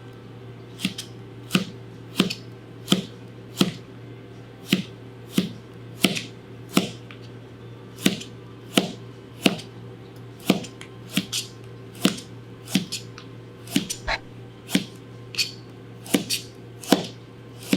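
Chef's knife slicing carrots thin, each cut ending in a sharp tap of the blade on the cutting board, at a steady pace of one to two cuts a second.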